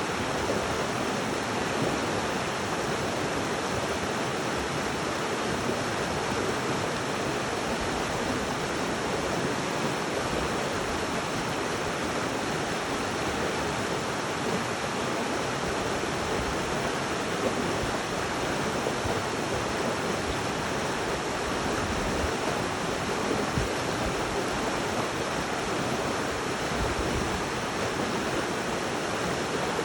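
River water flowing and rushing steadily, an even unbroken hiss of moving water.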